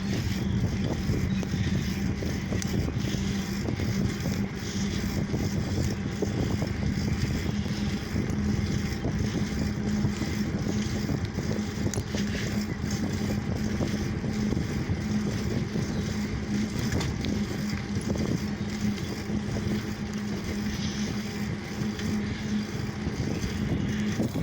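Lowrider bicycle being ridden: steady wind rumble on the microphone and rolling noise, with a steady low hum underneath.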